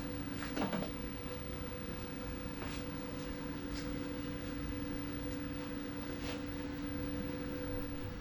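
Steady mechanical hum with two constant tones, with a few faint ticks over it.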